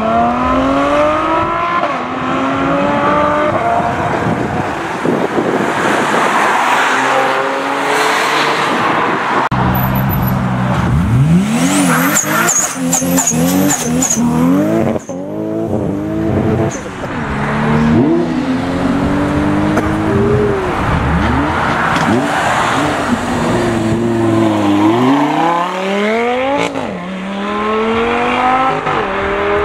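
Performance car engines revving and accelerating hard, one car after another, the pitch climbing through each gear and dropping at every upshift.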